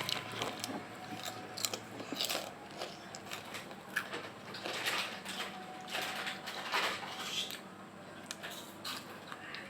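A person crunching and chewing a crispy snack close to the microphone: many sharp, irregular crunches that thin out near the end.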